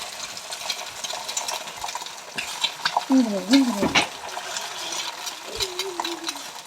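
Food sizzling in a pan on a stove, with a spatula scraping and clicking against the pan. A short wavering voice-like sound comes about three seconds in, and another comes near the end.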